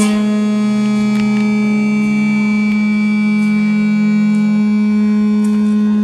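Temple gong resonating as its centre boss is rubbed by hand: a loud, steady drone on one low pitch with many higher overtones ringing over it.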